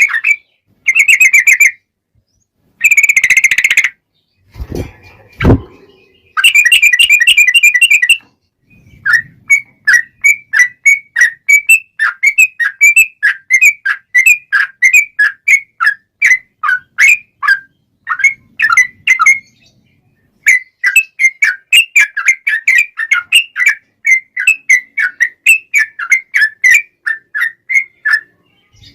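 Yellow-vented bulbul (trucukan) singing: several short bursts of fast rolling trill, then long runs of quick, evenly repeated chirps at about four a second, with one short break in the middle. A brief low sound comes about five seconds in.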